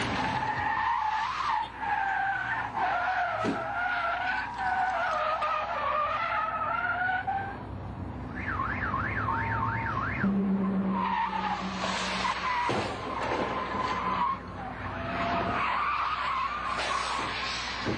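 Car tyres skidding and squealing under hard braking, in long wavering screeches, with several sharp impacts of vehicles colliding. A fast warbling alarm or siren sounds briefly about halfway through, followed by a short steady horn-like tone.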